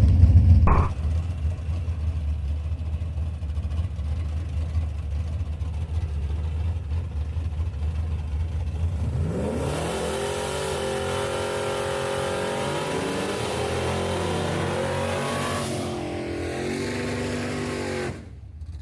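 LS-swapped Chevy C10 drag truck making a pass down the drag strip: a low engine rumble, then about halfway through the engine revs up hard, its pitch climbing in several steps for about six seconds before dropping lower. The sound cuts off suddenly just before the end.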